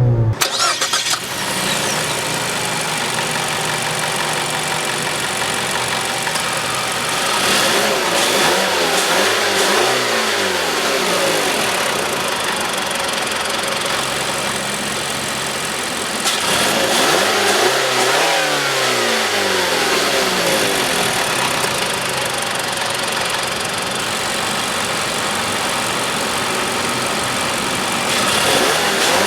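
2015 Mazda CX-5's engine running and revved several times: the pitch climbs and falls back, with steadier running between the revs. It is free-revving and smooth.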